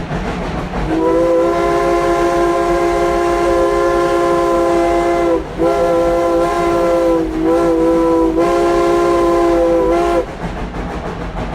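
Steam locomotive No. 190's chime whistle sounding a chord of several notes: one long blast of about four and a half seconds, then further blasts run close together with brief breaks, over the rumble of the locomotive.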